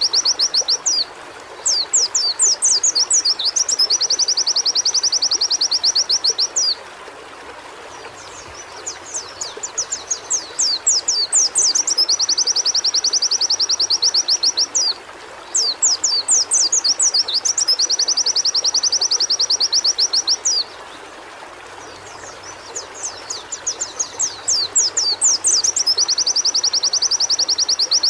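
White-eye (pleci) singing: runs of rapid, steeply sweeping chirps alternating with a fast, even trill held for a couple of seconds, the song breaking off briefly and starting again several times. A steady hiss runs underneath.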